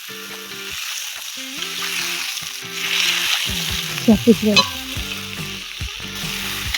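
Chunks of meat sizzling as they fry in hot melted fat in a cast-iron kazan. A few short squeaks stand out about four seconds in.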